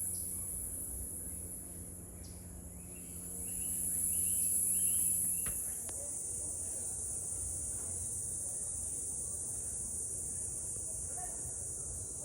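Steady, high-pitched chorus of rainforest insects, which shifts slightly lower in pitch about six seconds in.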